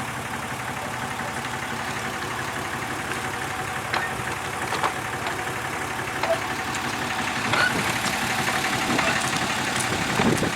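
Engine idling steadily, with a few sharp clanks or knocks over it, the last and loudest near the end.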